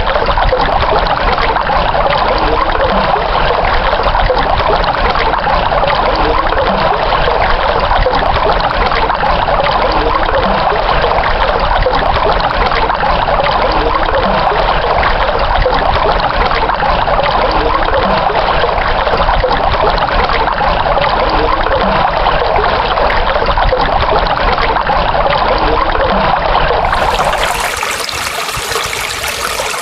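Running water of a stream, trickling and splashing steadily. Near the end the sound changes abruptly to a thinner, hissier water sound.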